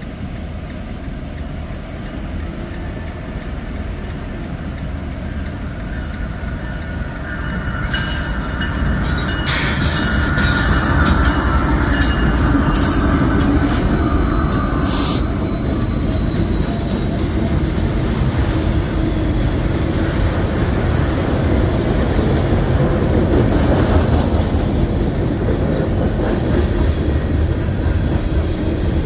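Freight train rolling past, growing louder to a steady rumble about ten seconds in, with wheel squeal and sharp clicks of wheels over the rail joints.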